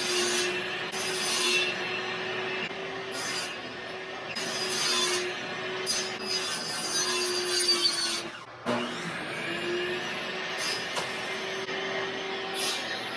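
Electric power tool running on wood, a steady motor hum under a rough grinding noise that rises and falls as it works. About eight and a half seconds in it briefly drops away, then picks up again.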